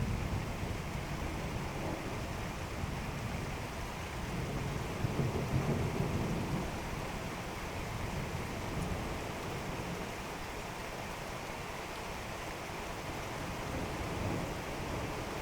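Steady rain falling during a thunderstorm, with low thunder rumbling that swells about five seconds in and fades again.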